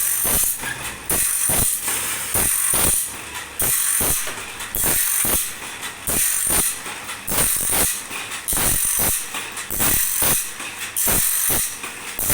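A workshop machine working a band saw blade. It makes steady, rhythmic metallic clicking, with a burst of high hiss about once a second.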